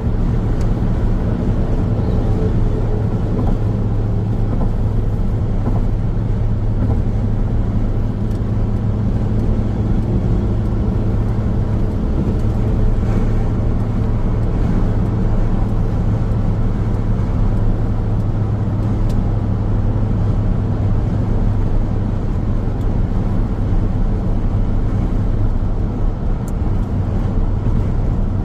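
Car driving along a road: steady road noise from the tyres and engine, with a constant low hum.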